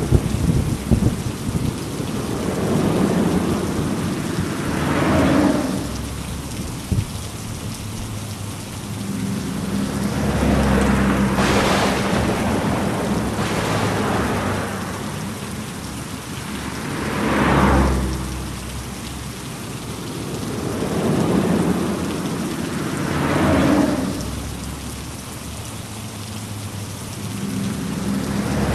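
Heavy rain falling steadily in a thunderstorm, with a rumbling swell that rises and fades every few seconds.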